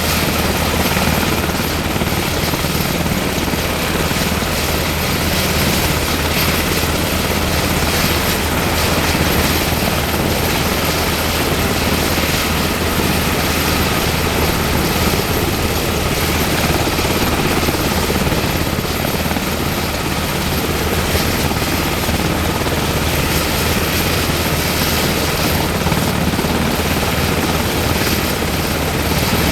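UH-60M Black Hawk helicopter running steadily with its rotors turning: a constant low rotor hum under the high whine of its twin turboshaft engines.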